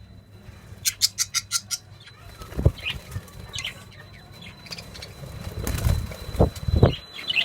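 Lovebirds in a cage: a brief flurry of wing flaps about a second in, a few short high chirps, and several dull thumps later on.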